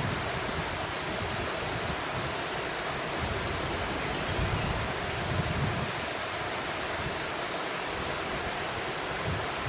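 Steady rushing noise of flowing water, with a few soft low rumbles about halfway through.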